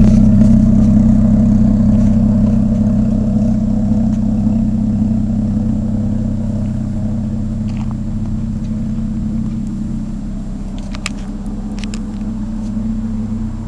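Mazda KLZE 2.5-litre V6 idling through a side-exit exhaust, a steady low exhaust note that gradually gets quieter, then picks up slightly near the end.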